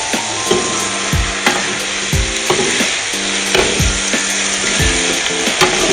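Food sizzling as it fries in a pan, a steady hiss, with a few short clicks over it. Background music with a steady beat plays throughout.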